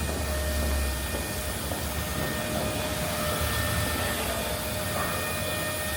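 Rainy city street ambience: a steady hiss of rain and wet pavement with a low traffic rumble, strongest in the first second, and a few faint steady hums.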